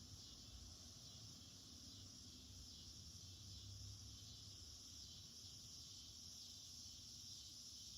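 Faint, steady, high-pitched cicada chorus droning without a break, over a low rumble.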